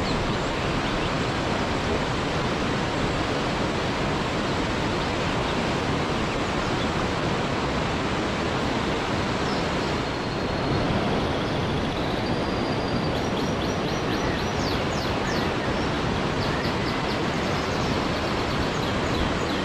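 Waterfall rushing: a steady, even roar of falling water. In the second half, faint short high-pitched chirps sound over it.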